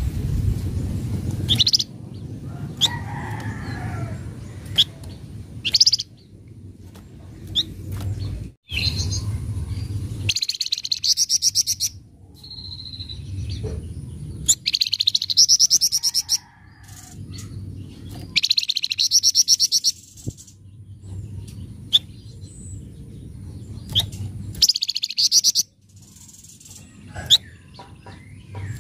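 Flamboyan songbird calling: sharp single chirps every second or two, broken by several one-to-two-second bursts of rapid, harsh chattering. Low background rumble underneath.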